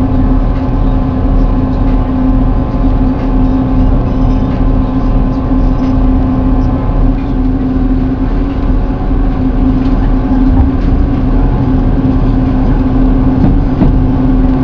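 Diesel multiple-unit train running, heard from inside the carriage: a steady engine drone with a constant hum over the rumble of the wheels.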